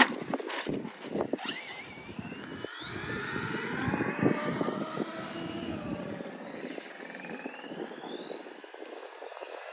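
Radio-controlled car's brushless electric motor whining, its pitch gliding up and down as it speeds up and slows. A sharp knock comes right at the start.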